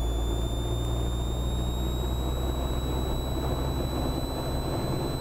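Cessna 172R's Lycoming IO-360 four-cylinder engine held at 1800 RPM for the pre-takeoff run-up, a steady low drone. A thin high whine over it rises slightly in pitch during the first two seconds, then holds steady.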